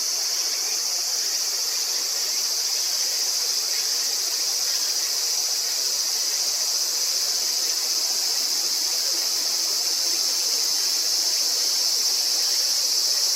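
Summer insect chorus: a continuous, high, shrill drone that holds steady without pauses.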